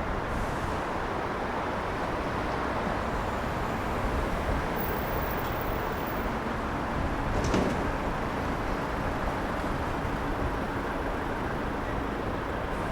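Steady city traffic noise on wet streets: the hiss and rumble of passing vehicles' tyres on damp road. About seven and a half seconds in, a short sharp clatter stands out.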